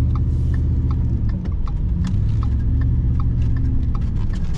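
Truck cabin noise while driving: a steady low engine and road rumble, with a light, even ticking about three times a second from the turn signal.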